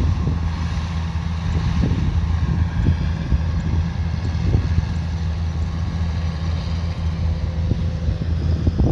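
Kubota combine harvester running steadily under working load: a deep, even engine hum with scattered short knocks.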